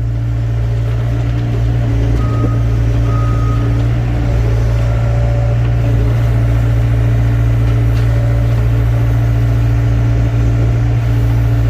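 Excavator's diesel engine running steadily at a constant pitch, with two short faint high tones about two to four seconds in.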